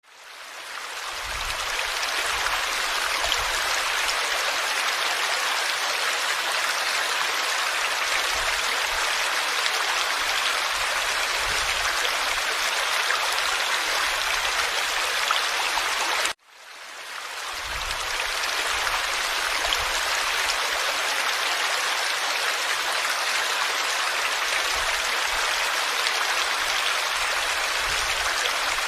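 Forest stream flowing: a steady rushing, babbling wash of water. It fades in at the start, cuts out abruptly for a moment about sixteen seconds in, and fades back in.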